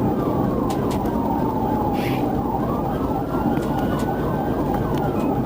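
Police car siren in a slow wail, rising and falling in pitch, with a quicker repeating siren tone beneath it and steady engine and road noise of the patrol car driving at high speed in a pursuit.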